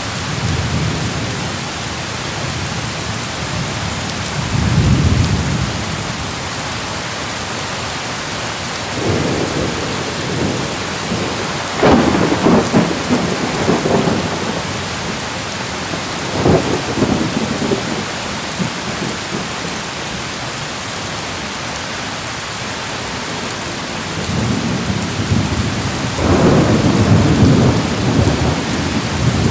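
Thunderstorm: steady heavy rain hissing throughout, with thunder rolling several times, sharper cracks about twelve to seventeen seconds in, and a long low rumble building near the end.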